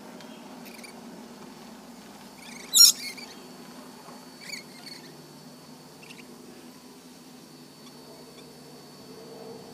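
Small birds giving a few short, high, squeaky chirps, with a loud one about three seconds in and fainter ones after, over a steady low hum.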